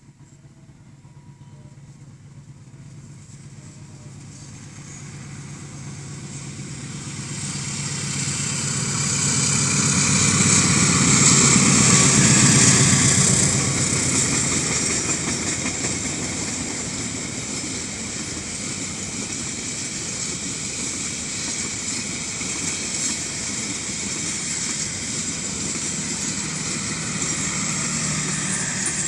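A passenger train hauled by a diesel locomotive approaches and passes. A low engine hum grows louder and peaks about twelve seconds in as the locomotive goes by, then the long line of coaches rolls past with a steady rumble and hiss of wheels on the rails.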